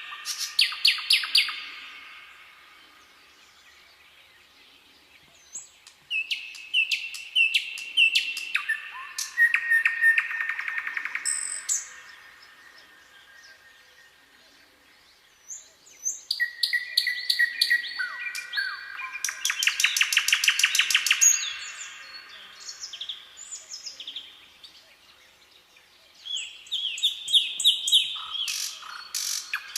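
Songbirds singing in phrases of high chirps and fast trills, with quieter pauses of a few seconds between phrases.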